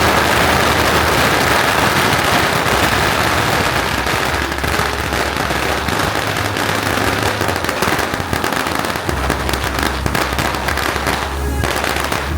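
Firecrackers going off in a dense, continuous crackle of rapid bangs, over a steady low hum.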